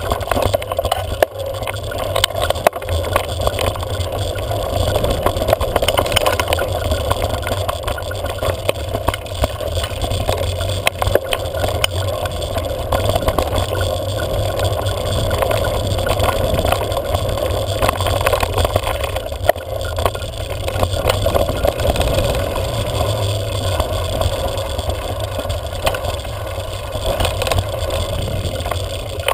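Steady wind buffeting and rumble on the microphone of a camera riding along on a moving bike, with small clicks and knocks from the ride.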